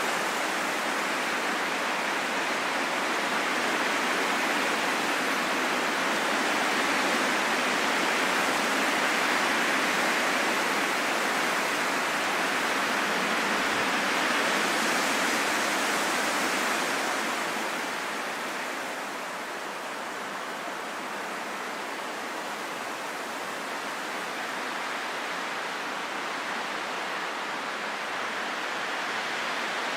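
Steady rain, an even hiss with no distinct drops or other sounds; it eases a little past halfway and then holds steady.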